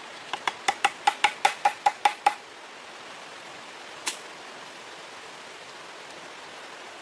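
A quick run of about eleven sharp knocks, roughly five a second, each with a short ringing note, then a single knock about four seconds in.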